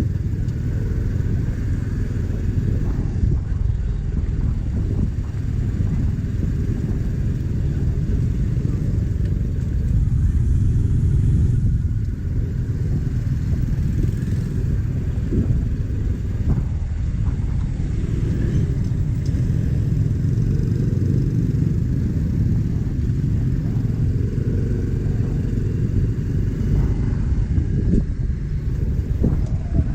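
Motorcycle running steadily while being ridden, a continuous low rumble of engine and road noise.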